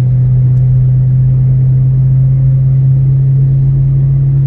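Ford Mustang GT's 4.6-litre V8 heard from inside the cabin while cruising, a steady drone that holds one pitch, with road noise underneath.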